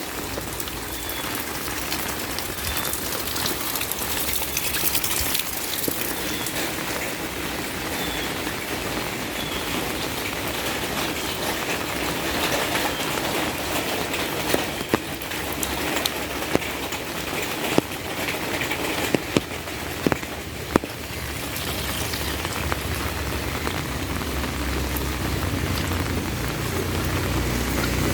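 Heavy rain pouring steadily, with a few sharp, loud knocks in the middle and a low rumble building near the end.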